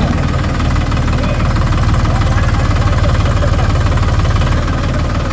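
Heavy diesel engine of a tractor or backhoe loader running with a fast, even beat, a little louder in the middle.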